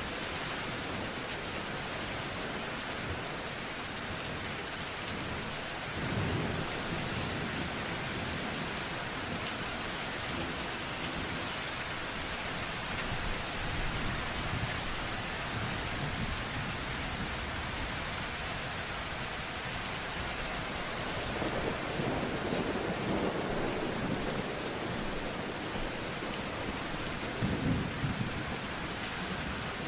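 Steady rain with thunder rolling in the distance: a low rumble about six seconds in, a longer one about two-thirds of the way through, and a short stronger one near the end.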